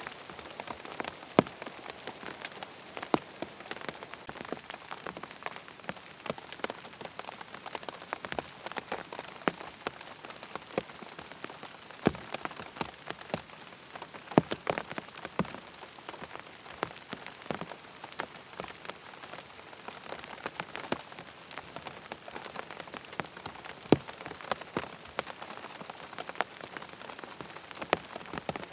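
Steady rain with many sharp, distinct drops striking close by at an irregular pace.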